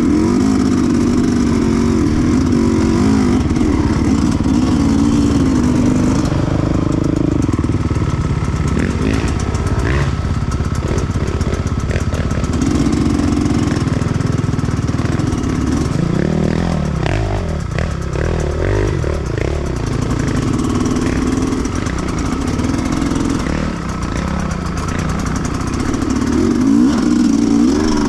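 Sherco 300 two-stroke enduro motorcycle engine running under riding load, its revs rising and falling continually with the throttle, over the rattle of the bike on rough ground. The engine eases off for a stretch in the second half and picks up again near the end.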